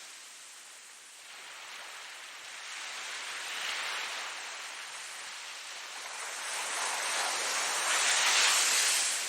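Ocean waves washing ashore: a steady hiss of surf that swells twice, the second wash the loudest, near the end, before it drains away.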